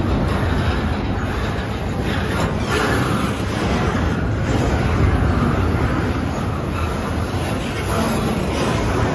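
Double-stack intermodal container well cars rolling past at speed: a steady rumble of steel wheels on the rails, with a few wheel clacks.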